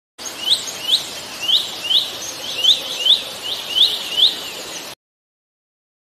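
A small bird chirping, a string of about ten short, sharply rising chirps at roughly two a second over a steady background hiss; it cuts off suddenly about five seconds in.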